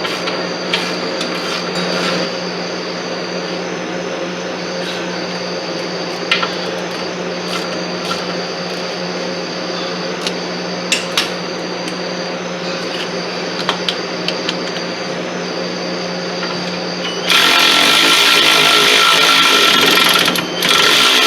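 A steady hum with scattered sharp metallic clicks. About three-quarters of the way through, a power tool starts up much louder, stops briefly near the end and starts again.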